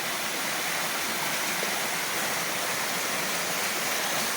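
Waterfall rushing: a steady, even hiss of falling water close by, with no single splashes standing out.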